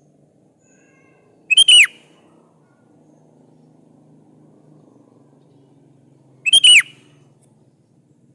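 Sooty-headed bulbul (kutilang) giving two short, loud whistled call phrases about five seconds apart, each a quick run of falling notes.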